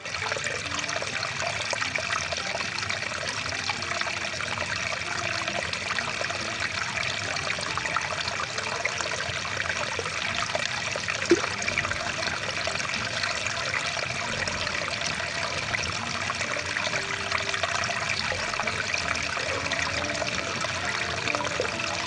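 A rushing water stream, a steady, even rush of flowing water, with a single sharp click about eleven seconds in.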